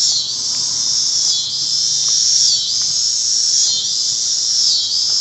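Loud, steady chorus of insects droning high in pitch, dipping and swelling about once a second. A faint low hum sits under it for the first half.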